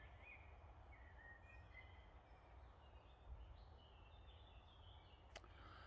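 Near silence: faint birdsong, a few soft high chirps over a low steady background rumble.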